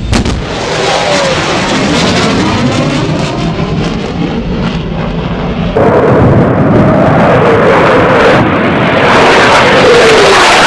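Military jet aircraft passing low overhead with a loud roar, opening with a sharp bang; the roar falls in pitch as the jet goes by. About six seconds in it cuts abruptly to another, louder jet pass.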